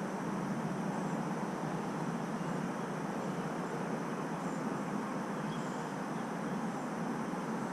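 Steady outdoor background noise, an even hiss with no distinct events, with faint short high chirps now and then.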